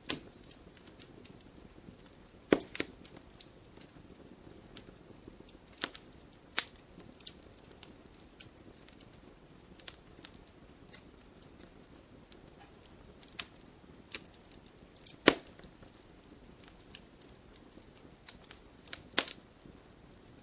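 Campfire crackling, with irregular sharp pops and snaps over a low steady hiss; the loudest pops come about two and a half, fifteen and nineteen seconds in.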